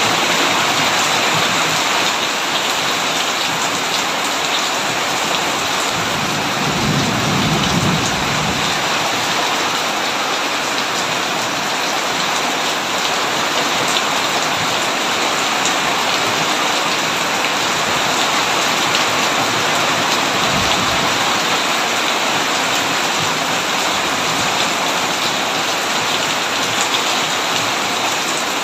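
Heavy rain falling steadily on a tin roof. A low rumble of thunder swells about six seconds in and lasts a few seconds, and a shorter rumble comes around twenty seconds in.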